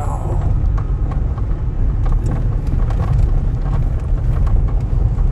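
Car driving along, heard from inside the cabin: a steady low rumble with scattered ticks and clicks.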